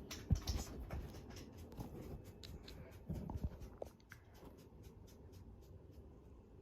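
A dog scratching, a quick run of fine scratchy strokes, with a dull thump about a third of a second in and another pair about three seconds in; the scratching dies away about four seconds in.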